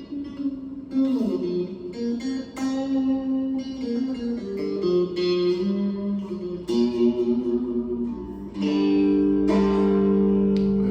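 Electric cigar box guitar played through an amplifier with effects: a melody of single picked notes with a few slides in pitch, then a held, ringing chord near the end.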